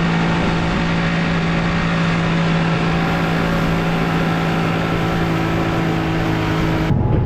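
Boat motor running at a steady speed, a constant low hum over rushing water and wind noise, cutting off suddenly near the end.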